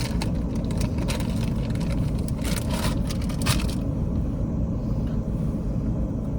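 Small portable gas stove burner giving a steady low roar under the pan, with irregular light crackling and clicks over the first few seconds that stop about four seconds in.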